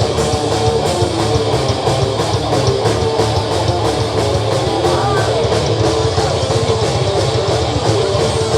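Live rock band playing a fast instrumental passage on stage: electric guitar and bass with a drum kit keeping a quick, steady beat of cymbal hits, all loud and steady.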